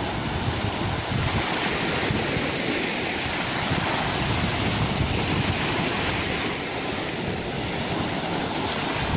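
Sea waves surging in a steady, continuous rush, with wind buffeting the microphone.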